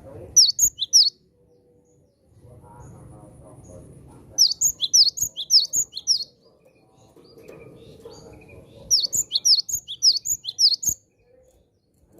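Cinereous tit (gelatik batu) singing in three bursts of rapid, sharp, high notes, each note falling quickly in pitch, with a low background murmur between the bursts.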